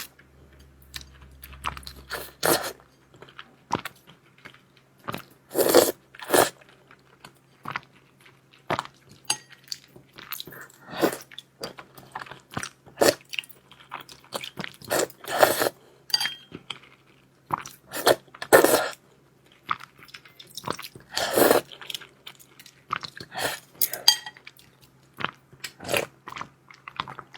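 Close-miked eating of noodles: irregular chewing, biting and mouth sounds, with louder, longer noisy bursts every few seconds, over a faint steady low hum.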